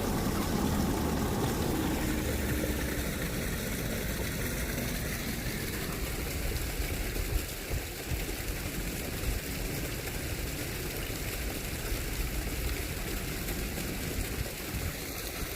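Steady low rumbling background noise with no clear single event.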